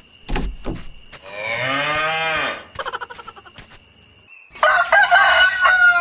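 Animal calls: a long call that rises and falls in pitch, starting about a second and a half in, then a dense burst of overlapping calls near the end, with a few short knocks before.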